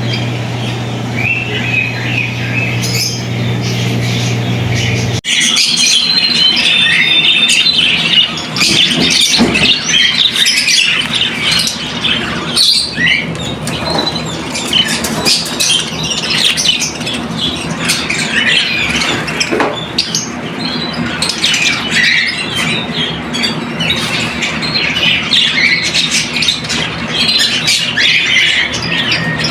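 Many caged birds chirping and squawking all at once in a dense, unbroken chatter of short high calls. For about the first five seconds it lies under background guitar music, then the music stops abruptly and the birds carry on alone.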